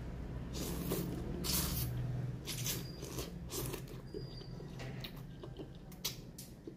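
A person eating noodles with seaweed wrap: irregular close chewing, crunching and wet smacking sounds.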